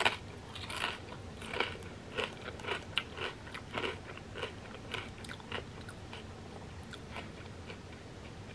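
Close-up chewing of a crunchy fried wonton chip with creamy crab rangoon dip: a run of short crisp crunches, two or three a second, that thin out and stop near the end.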